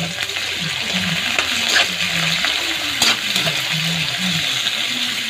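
Pieces of boiled beef skin with onion and ginger sizzling in a metal wok while a spatula stirs them, with a few sharper scrapes of the spatula against the pan.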